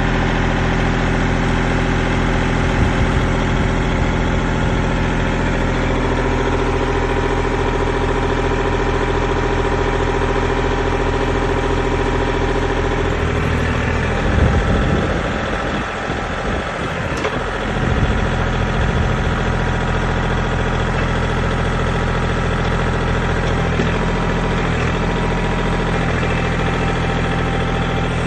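Kubota L2501 tractor's three-cylinder diesel engine running steadily. About halfway through, the engine note turns rough and uneven for some four seconds, then settles back to a steady run.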